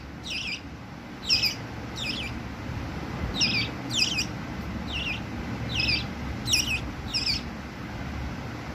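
A bird calling repeatedly, about nine short, wavering high calls roughly a second apart, over a steady low rumble.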